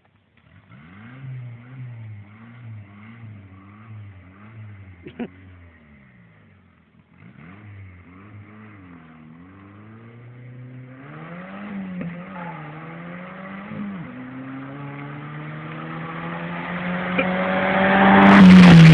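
Turbocharged 1955 Volkswagen Beetle engine, running on a bare floor pan with no body, revving in quick blips so its pitch bobs up and down. After a brief lull it builds steadily louder and higher in pitch, loudest near the end.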